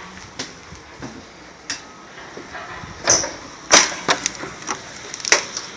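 About half a dozen sharp knocks and clacks, most of them between three and five and a half seconds in, from something hard being handled or knocked about.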